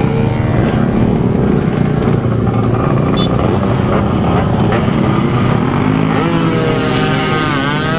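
Motorcycle engine running at high revs under hard acceleration. Its pitch climbs, drops at a gear change about six seconds in, and climbs again.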